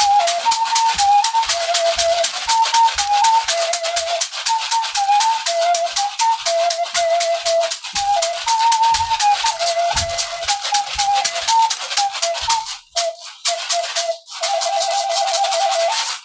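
A flute playing a quick, simple tune of a few notes while a hand rattle is shaken fast and steadily along with it. Near the end the tune breaks off twice, then goes on to one held, wavering note with the rattle still going.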